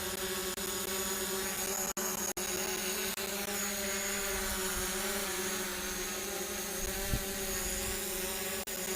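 DJI Mavic Pro quadcopter's propellers humming steadily in flight shortly after takeoff, a constant multi-pitched whine with a few brief dropouts.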